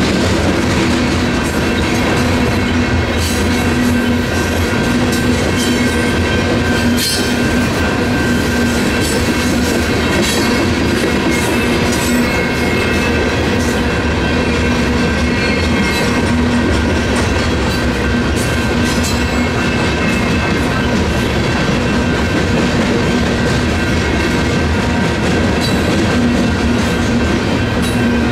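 Loaded covered hopper cars of a freight train rolling steadily through a grade crossing, wheels clattering over the rail joints, while the crossing's electronic bells ring continuously with a steady tone.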